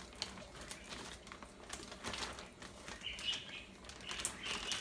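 Quiet hand-handling sounds in a kitchen: soft rustling and scattered light clicks, with a brief faint high squeak about three seconds in, as something is closed up by hand.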